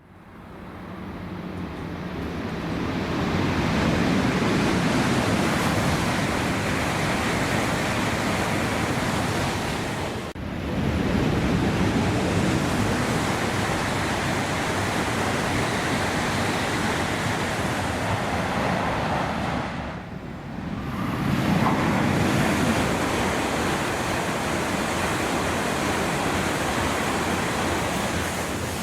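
Shinkansen bullet trains passing through a station at high speed: a loud, steady rushing roar that builds over the first few seconds, with short breaks about 10 and 20 seconds in.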